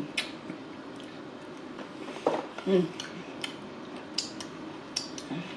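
Close-up eating sounds: irregular wet clicks and lip smacks of chewing, with a few brief low hums.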